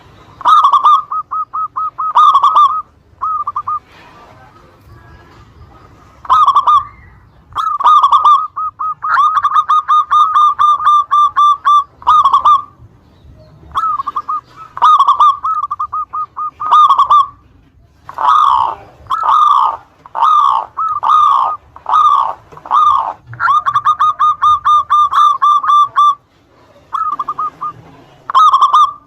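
Zebra dove (perkutut) cooing: loud phrases of quick notes on one pitch, repeated with short pauses between, some phrases rapid rattles and others slower separate notes. A lure song, played to set other zebra doves calling.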